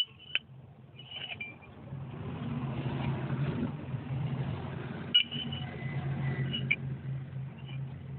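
A motor running steadily, growing louder about two seconds in, with a few sharp knocks, the strongest about five seconds in.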